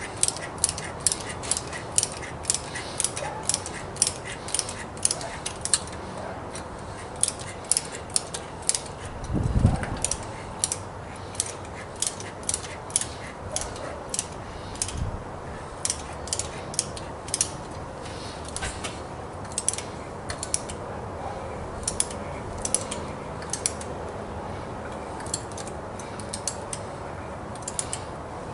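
A hand ratchet clicking in quick strokes, about three clicks a second with a few short pauses, and a single dull thump about nine and a half seconds in.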